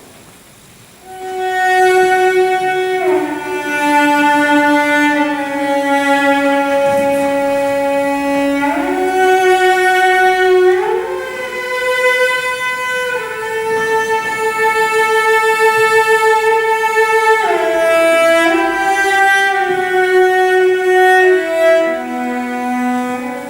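Solo violin playing a slow, mournful melody of long held notes with smooth slides between pitches.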